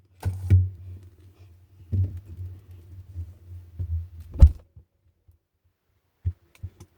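An iPad being set down inside a freezer, with knocks and clicks against the shelves over a low hum, then a loud thud about four and a half seconds in as the freezer door shuts. After that it goes nearly quiet, with a few faint knocks.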